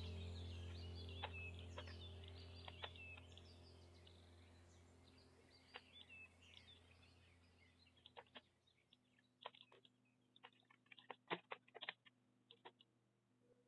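Faint bird chirps over a low steady hum, both fading out over the first several seconds. Then near silence, with scattered faint clicks.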